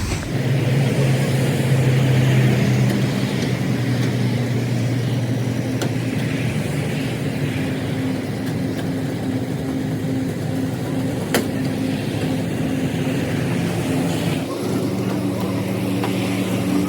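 Truck engine running steadily, its note shifting about three-quarters of the way through, with a single sharp click about eleven seconds in.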